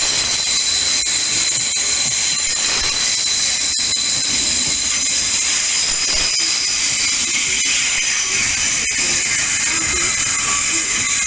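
Thameslink Class 700 electric multiple unit moving past along the platform at close range: a loud, steady hiss of wheels and running gear with thin, high, steady whining tones over it, and a few faint clicks.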